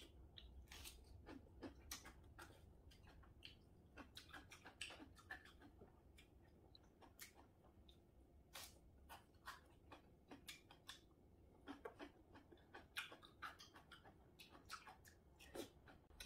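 Faint, close-up chewing of a long strip of napa cabbage kimchi: irregular wet crunches and mouth clicks, a few to several a second, in clusters with short pauses.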